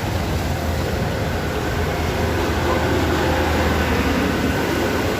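Fairly heavy rain falling steadily, over the low steady hum of an idling bus engine.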